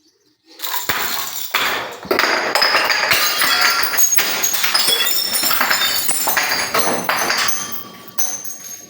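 Glass bottles being crushed, cracking and shattering in a dense run of crunches with clinking shards, starting about half a second in and tailing off near the end.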